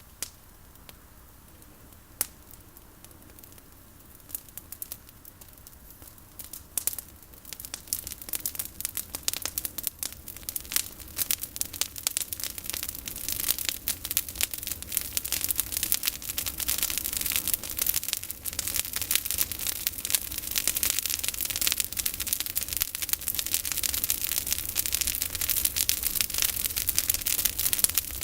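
Campfire of olive branches crackling and popping, the cracks sparse at first and growing dense and steady from about a quarter of the way in.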